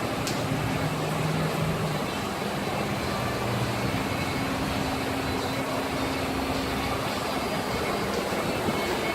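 1970 Pontiac GTO Judge's V8 running steadily through its new custom dual exhaust, a continuous low rumble with its pitch shifting slightly.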